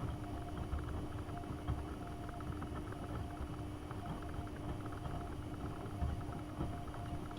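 AEG Öko-Lavamat 72520 front-loading washing machine in its wash cycle: the drum motor runs with a steady hum over a low, uneven rumble from the turning drum.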